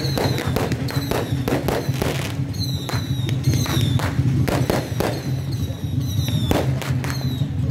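Strings of firecrackers popping in rapid, irregular bursts, with short falling high whistles repeating over them and a steady low drone underneath.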